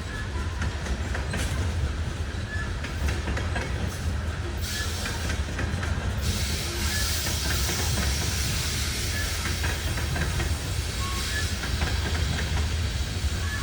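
Freight cars of a loaded coal train rolling past, with a steady low rumble, wheels clicking over rail joints and short wheel squeals now and then. A hiss grows louder about halfway through.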